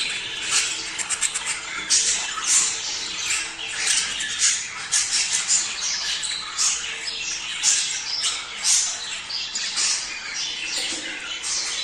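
A flock of budgerigars chattering, with many short, sharp chirps and squawks overlapping without a break.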